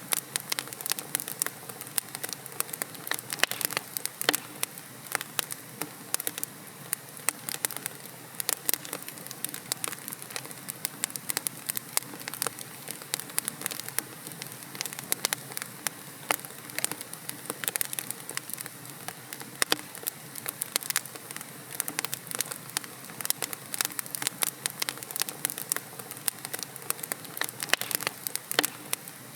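Wood fire of burning logs in a fireplace, crackling and popping with many irregular sharp snaps over a soft steady hiss.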